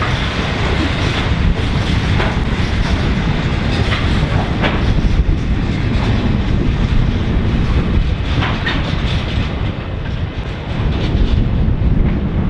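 Freight train's wagons, loaded with shipping containers, rolling past: a steady rumble of steel wheels on rail with occasional sharp clicks.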